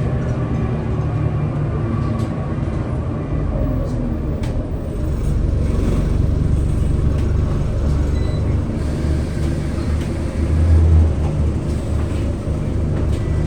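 Scania L94UB city bus running, a steady low engine note with road noise, swelling briefly about eleven seconds in.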